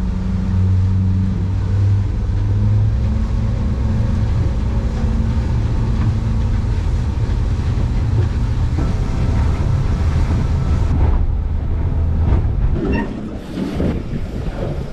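Boat engine running steadily under way, a loud low hum. About 13 seconds in it drops off and irregular knocks take over.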